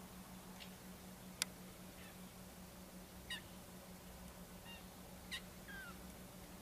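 A few faint, short bird calls scattered through, some falling in pitch, over a steady low hum, with one sharp click about a second and a half in.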